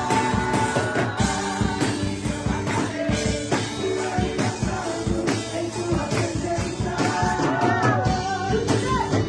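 Live church worship music: a band with drums and guitar playing while singers sing, with regular percussion strokes and a steady beat.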